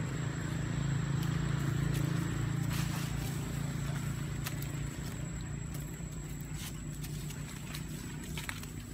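An engine running steadily with a low hum, a little louder in the first few seconds, with scattered light clicks and taps.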